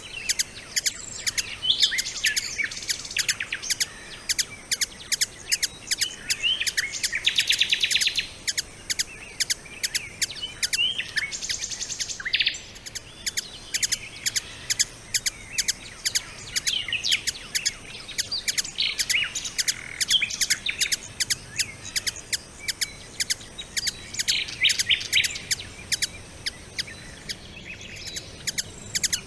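Several songbirds singing and chirping in overlapping calls, with a fast trill about seven seconds in. A faint steady high-pitched whine runs underneath.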